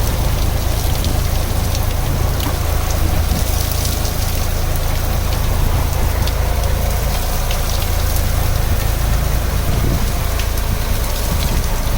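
Rain falling in a steady patter of small drop ticks, over a constant low rumble.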